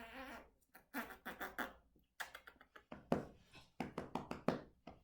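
Australian Shepherd puppies chewing and crunching hand-fed treats: quick runs of wet crunches and mouth smacks in several short bursts, with a brief rustle at the start.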